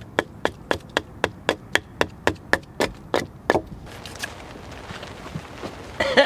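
Wood being struck in a quick, even rhythm, about four sharp knocks a second, from hand-tool carving or chopping work; the knocks stop about three and a half seconds in.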